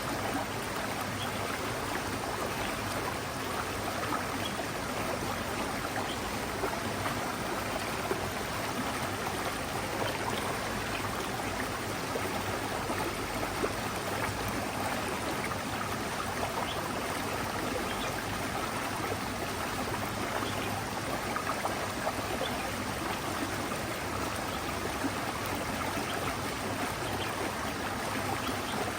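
Small forest mountain stream running over rocks: a steady, even rush with light gurgling and trickling.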